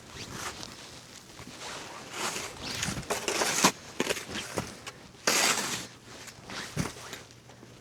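Snow crunching and scraping in irregular bursts, the loudest about three seconds in and again about five and a half seconds in, as people work and move through deep snow.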